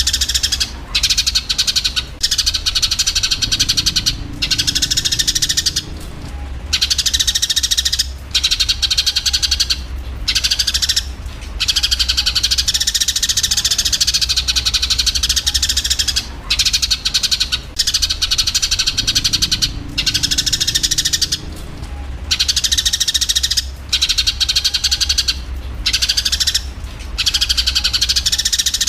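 Eurasian tree sparrows chirping and chattering in a dense, nearly continuous stream of high calls with short breaks, the agitated chatter of sparrows fighting. A steady low hum runs underneath.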